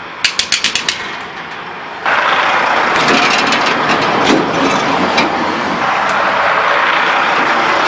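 Train wheels rolling over the rail: a quick run of sharp clicks in the first second, then from about two seconds in a loud, steady rolling noise with scattered clicks.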